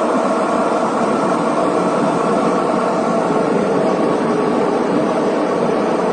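Jet airliner's engines running at high power during takeoff, a loud, steady rushing noise with faint steady tones in it.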